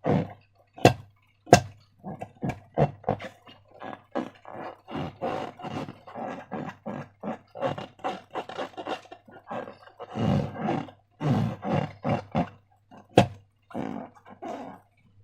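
Slime being squished and worked by hand: a quick, irregular run of squelches, with a few sharp snaps among them.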